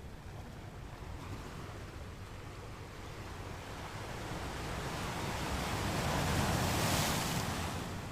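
Ocean surf: a wave swells over a few seconds, breaks in a loud rush of hiss about seven seconds in, then falls away.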